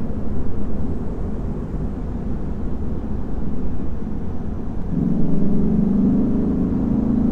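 Lexus IS500 F Sport Performance's naturally aspirated 5.0-litre V8 on the move: a low rumble with little engine note at first, then about five seconds in the engine note comes in strongly and climbs slightly in pitch as it pulls under throttle.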